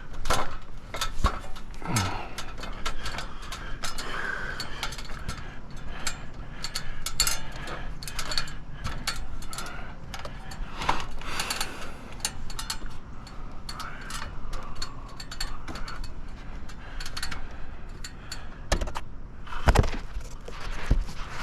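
Irregular clicks, knocks and scuffs from handling and movement, with a few louder thumps about two seconds in and near the end.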